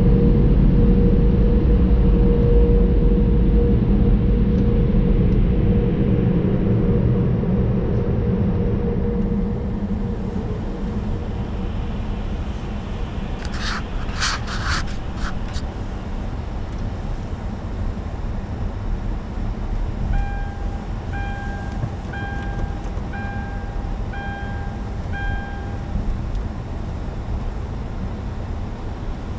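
Car wash tunnel equipment and car running with a loud steady rumble and a humming tone, which drop away after about nine seconds to a quieter rumble. A few short hissing bursts come a little past the middle, then a run of about six evenly spaced beeps.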